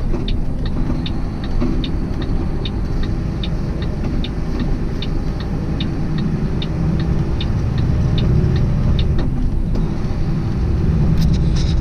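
Inside a tractor-trailer's cab: the truck's engine and road noise rumble steadily, with the turn signal ticking at an even pace, about two or three ticks a second. The engine swells in the second half.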